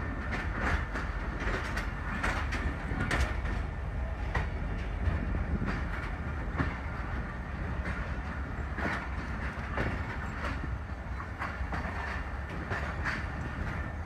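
Passenger train running on the track, heard from an open coach window: a steady low rumble with irregular clicks and clatter of the wheels over the rail joints.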